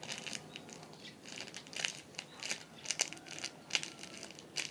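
A marshmallow squishy being squeezed and handled, giving a series of short, irregular crinkling rustles, a few a second.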